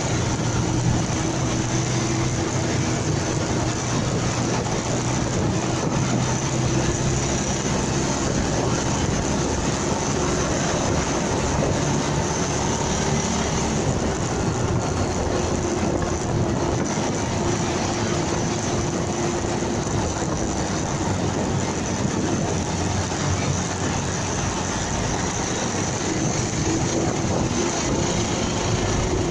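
Motorcycle engine running at a steady, gently varying speed, its tone drifting slightly up and down, under a constant rush of wind and road noise on the dashcam microphone.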